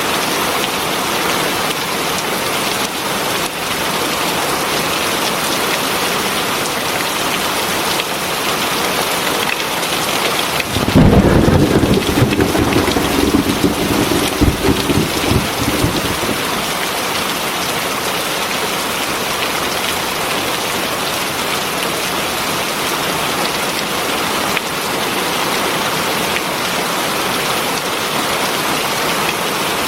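Heavy rain falling steadily, with one low rumble of thunder about a third of the way in that lasts about five seconds and dies away.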